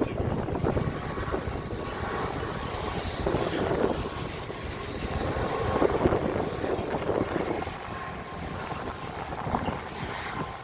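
Jet airliner engine noise: a steady rush with a faint high whine.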